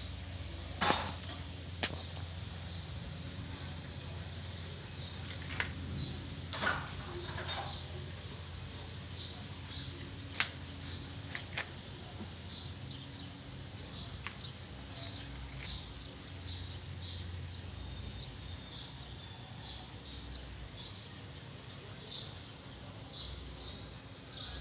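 Small birds chirping in short, repeated high calls, with a few sharp clicks (the loudest about a second in) over a low steady hum.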